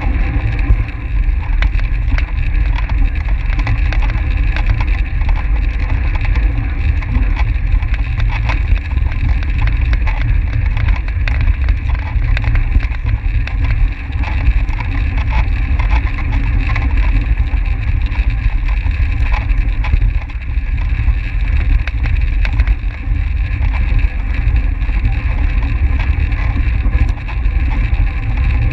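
Steady wind rush and low rumble on a bike-mounted camera's microphone as a track bike is ridden at race speed, with small scattered clicks.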